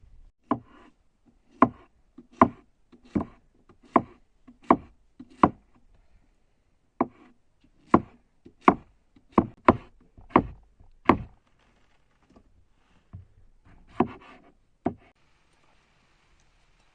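Chopping onto wood: sharp knocks about one every three-quarters of a second, a short break about six seconds in, then another run, ending with a few softer knocks.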